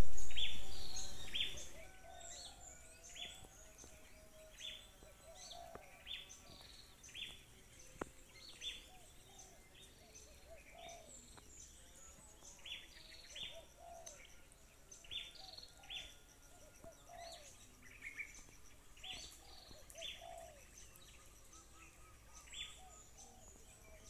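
Wild birds calling in scrub: short, high, downward-sliding chirps repeated irregularly about once a second, with softer lower warbling notes in between. A louder noise at the very start fades away over about two seconds.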